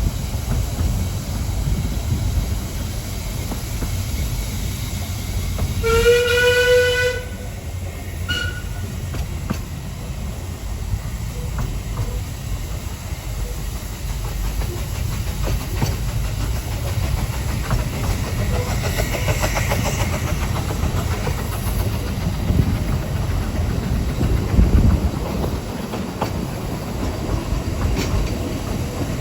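Ffestiniog Railway narrow-gauge train running, with a steady low rumble and clatter of wheels on rail. About six seconds in, the whistle sounds once for about a second, followed shortly by a brief higher toot.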